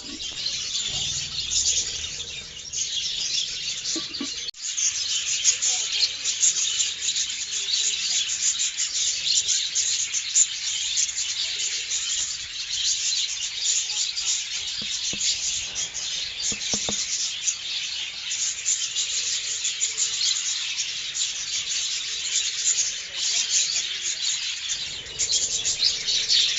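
Flock of budgerigars chattering and chirping continuously, many birds at once.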